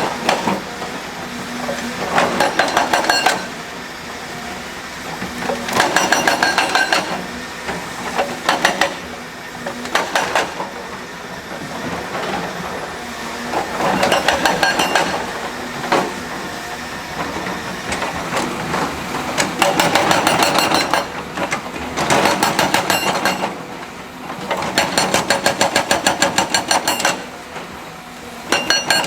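Heavy construction machinery running steadily, with repeated one-to-two-second bursts of rapid metallic clatter every few seconds.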